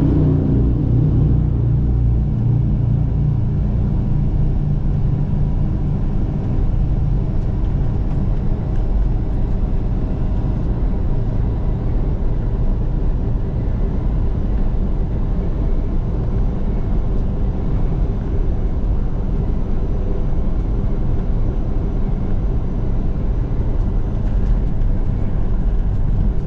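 Steady low engine and road rumble of a semi-truck moving on the highway, with no marked changes.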